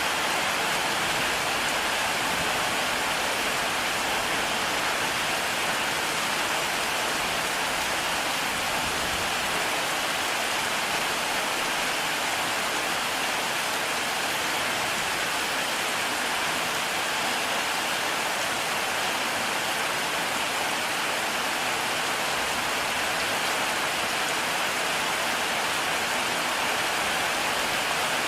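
Heavy rain falling steadily: a dense, even hiss of rain on surfaces with no break or change.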